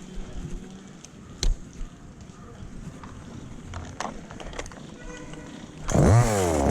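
A few scattered knocks and clicks, then near the end a chainsaw engine suddenly comes in loud and revs up, its pitch rising.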